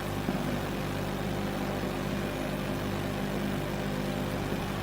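Steady low hum of background room noise, made of several constant low tones with hiss over them, like a motor or electrical hum.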